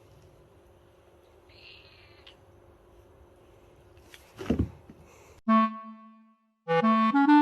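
Faint room noise, then one short cat meow falling in pitch about four and a half seconds in. About a second later a melody of separate, held notes starts abruptly.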